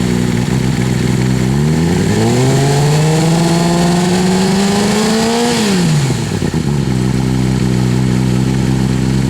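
Kawasaki Ninja ZX-6R inline-four through a LeoVince Factory R Corsa titanium full exhaust: idling, then revved up over about a second, held while creeping slightly higher for about three seconds, then dropping quickly back to a steady idle.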